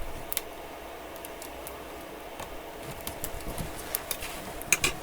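Scattered light clicks and taps of small parts and tools being handled during a tablet repair, growing more frequent in the second half, over a steady faint hum.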